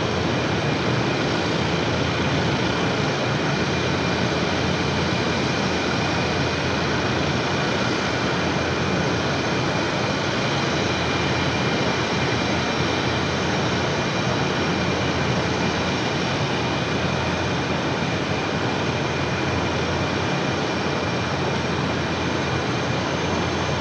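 F-117 Nighthawk's twin General Electric F404 turbofans running steadily as the jet taxis: an even jet rush with a thin, steady high whine on top.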